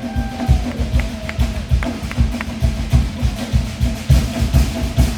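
Polynesian show drumming: a fast, steady beat of low drum thumps with sharp knocks over it and a held note underneath.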